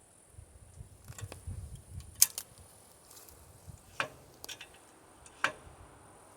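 Light clinks and ticks of metal hardware and tools being handled during bandsaw mill assembly: about half a dozen sharp ticks spread over several seconds, with low bumping and handling noise in the first two seconds.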